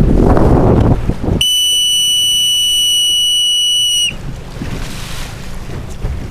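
Wind buffeting the microphone, then one long, steady whistle blast about a second and a half in, lasting nearly three seconds and dipping in pitch as it stops: a sailing coach's whistle signalling the boats to turn.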